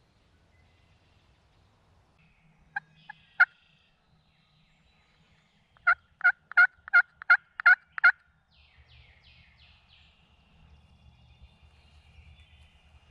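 Turkey yelping: a few short notes about three seconds in, then a run of seven loud, evenly spaced yelps about three a second, typical of a hen's yelp series. A small bird sings faintly after the yelps.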